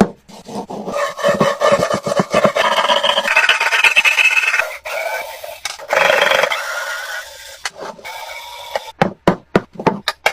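Hand tool rasping and scraping over rusty metal in repeated strokes, some strokes giving a pitched squeal, with quick clicks near the end.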